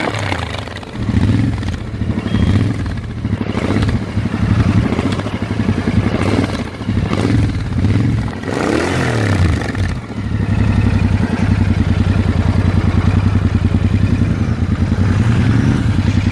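Royal Enfield Interceptor 650's parallel-twin engine running, revved up and down several times in the first ten seconds or so, then settling to a steady idle.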